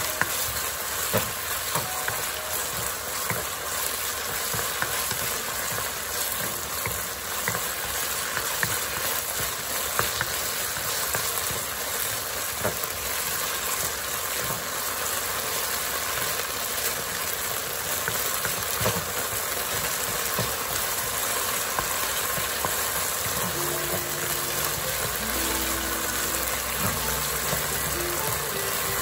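Beef strips sizzling in oil in a nonstick wok, stirred and scraped with a wooden spatula, with frequent light clicks of the spatula against the pan.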